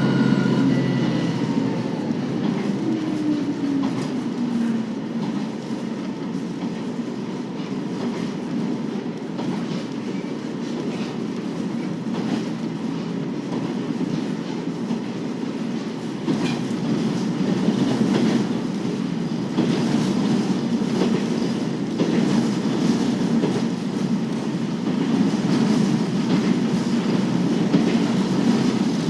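Onboard running sound of a KiHa 40 series diesel railcar: the engine note falls away in the first few seconds, then the car runs on with steady wheel-and-rail rumble and the clickety-clack of rail joints.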